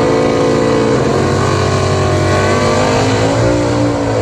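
A car engine running at steady high revs, dipping briefly about a second in and sagging slightly in pitch near the end.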